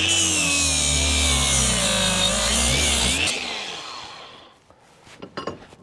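Angle grinder with a 115 mm flap disc running and grinding steel, its whine dipping in pitch under load, then switched off about three seconds in and spinning down.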